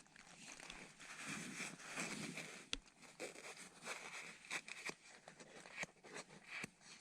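Faint, irregular rustling and light clicking, like fabric and gear being handled.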